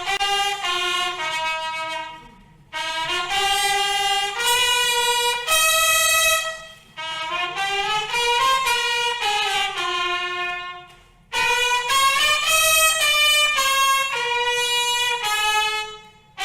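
Brass instrumental music with a trumpet-like tone, playing a melody in phrases separated by brief pauses.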